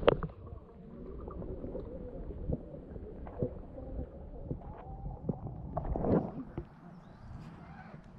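Kayak being paddled: water sloshing and splashing, with scattered knocks of the paddle against the hull and a louder splash-and-knock about six seconds in.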